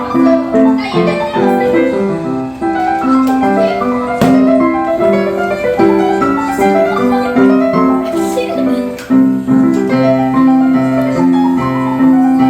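Solo piano being played: a flowing run of struck notes and chords over a repeated low note.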